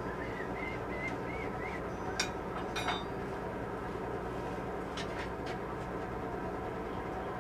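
Steady machine hum and rushing noise, with a few light clicks and knocks about two and three seconds in and again around five seconds.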